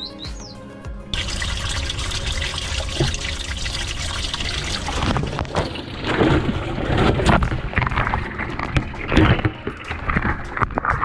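Bosch washing machine taking in water at the start of a wash cycle: a rush of water begins suddenly about a second in, then turns more uneven and splashy.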